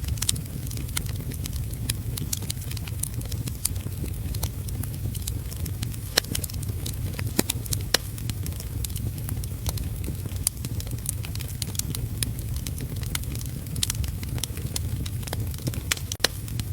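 Fireplace wood fire crackling, with frequent sharp pops, over a steady low rumble of heavy rain.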